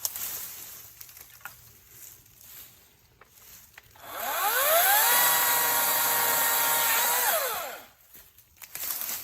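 A Hart 40V cordless electric chainsaw's motor spinning up with a rising whine about four seconds in, running at a steady high pitch for about three seconds, then winding down. Faint clicks and rustling come before and after.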